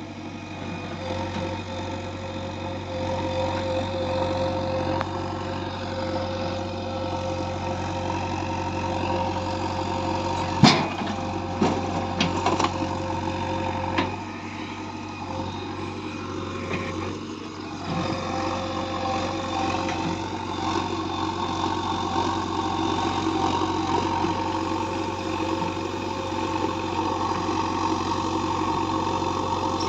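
A heavy machine's diesel engine running steadily, with a few sharp knocks about a third of the way in, the first the loudest.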